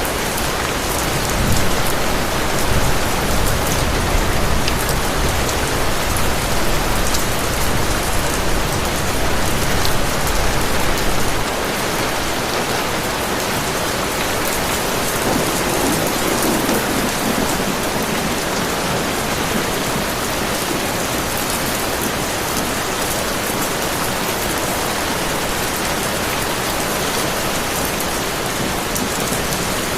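Heavy rain falling steadily, with a low rumble of distant thunder underneath for the first ten seconds or so that ends about eleven seconds in.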